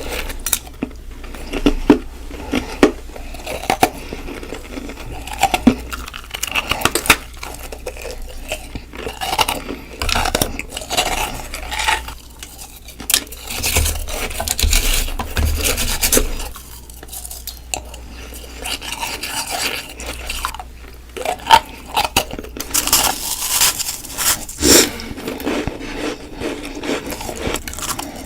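Close-miked crunching of ice between the teeth: bites and chewing that give many sharp, irregular cracks, clinks and scrapes in uneven clusters.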